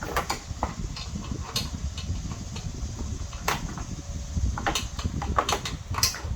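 Damaged plastic body parts and their clips on a car's underside being pried and pulled loose, giving a string of irregular clicks and snaps, more frequent in the second half, over a steady low rumble.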